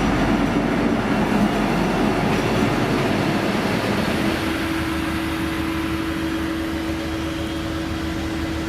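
V/Line N class diesel-electric locomotive running with its carriages, a steady dense rumble, with a steady low hum coming in about four seconds in.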